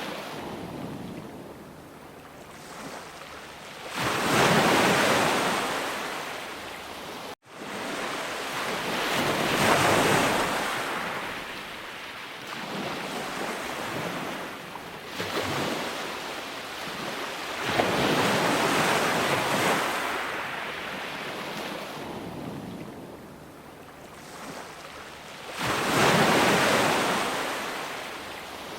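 Sea waves surging and breaking, each wave a swell of hiss that rises and fades over a few seconds, about five in all. The sound cuts out for an instant about a quarter of the way in.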